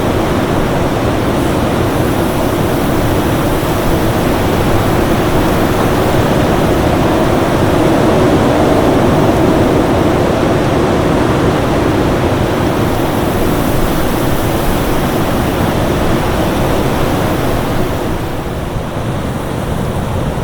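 Winter storm ambience: steady, dense wind noise with a deep low hiss and no distinct events. It swells slightly around the middle and eases a little near the end.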